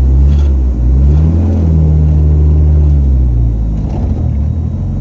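Lancia Delta Integrale Group A rally car's turbocharged four-cylinder engine under way. The engine note climbs about a second in, holds steady, then drops back around three seconds in.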